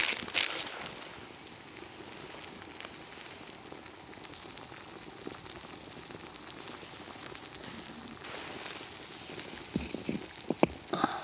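Open wood fire crackling, scattered small pops over a low steady hiss, with a few sharp knocks near the end.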